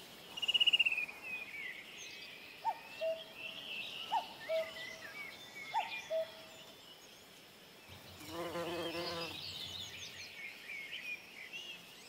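Wild birds calling and chirping softly. There is a short trill near the start, then scattered high chirps and a two-note call repeated three times. About eight seconds in comes a lower call with a wavering pitch, lasting just over a second.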